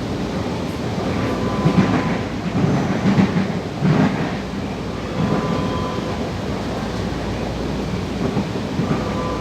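Interior of an Alstom-built Série 8900 electric multiple unit running along the track: a steady rumble of wheels on rail, with several louder jolts and thumps about two to four seconds in.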